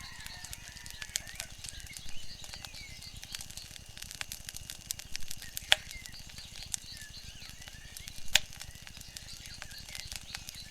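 Wood fire crackling, with frequent sharp pops and snaps, two louder ones near the middle and about three-quarters through. Faint short bird chirps sound now and then behind it.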